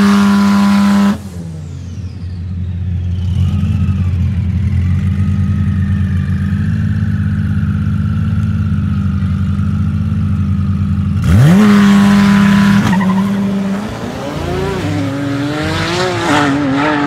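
Bugatti Chiron and a tuned Nissan GT-R at a standing drag start. An engine revs up sharply and holds high revs at the start and again about 11 seconds in, over a steady idle, with a faint whistle slowly falling in pitch between. About three seconds from the end both cars launch and accelerate away, the engine note climbing and dropping through gear changes.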